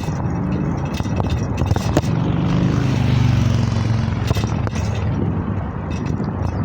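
Riding noise with heavy wind on the microphone and scattered rattles. A motor vehicle's engine hum swells and fades about two to four seconds in, as it passes.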